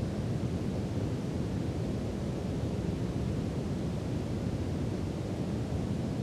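Brown noise: a steady, deep rushing hiss, strongest in the low end and fading toward the highs, at an unchanging level.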